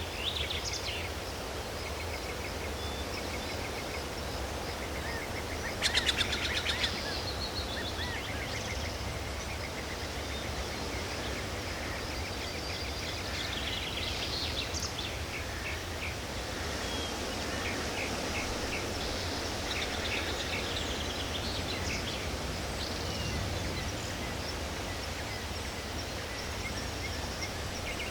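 Forest ambience: assorted songbirds calling and chirping on and off, over a steady low background rumble. About six seconds in comes a louder, harsh burst of calls lasting about a second.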